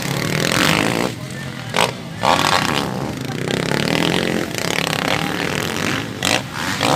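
Motocross dirt bike engines running on the track.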